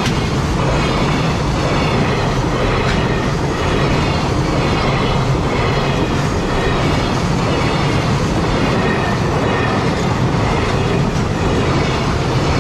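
A freight train rolling past close by: a steady, loud running noise of steel wheels on the rails.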